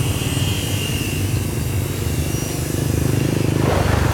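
Motorbike engine running steadily under way, with a rush of extra noise near the end.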